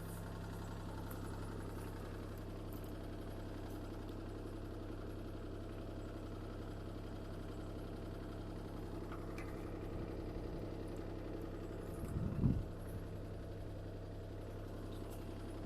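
CAT 303C CR mini excavator's diesel engine idling steadily while it warms up, with one short, louder low bump about twelve seconds in.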